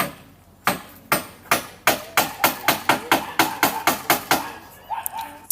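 Hammering: about fifteen quick hammer blows in a row, speeding up from about two to about five a second, each with a short ring.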